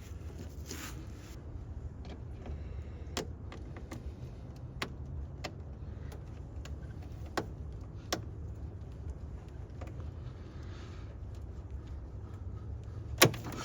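Scattered light metallic clicks of hand tools on a spring hose clamp in a car's engine bay over a low steady rumble, ending about 13 seconds in with one sharp snap as the spring clamp slips loose.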